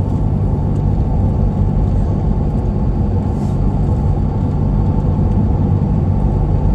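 Truck driving at road speed: a steady low rumble of engine and tyre noise.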